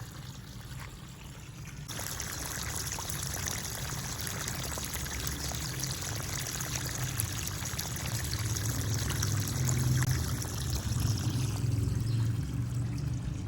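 Water pouring from a garden hose into an irrigation channel between garden beds, a steady splashing flow that gets louder about two seconds in.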